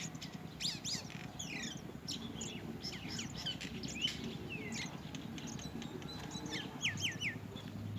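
House sparrows chirping: many short, quick chirps that sweep down in pitch, overlapping all through, with a quick run of three alike notes near the end.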